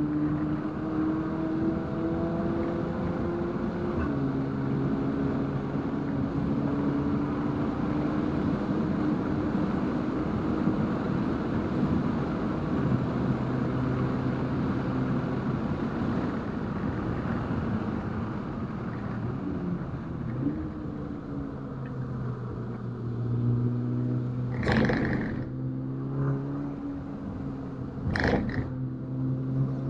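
Turbocharged four-cylinder engine of a Stage 2-tuned 2019 VW Golf R running at a fairly steady pace on track, with a dense rush of road and wind noise. Its note drops a little a few seconds in and again around the middle. Two brief sharp noises come near the end.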